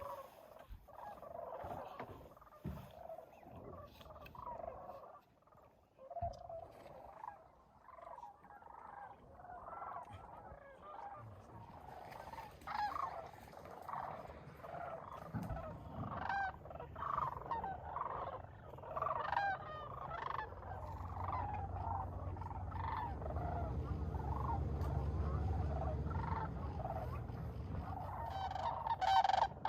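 A flock of sandhill cranes calling, many short calls overlapping, louder near the end. A low rumble sits under the calls from about halfway through.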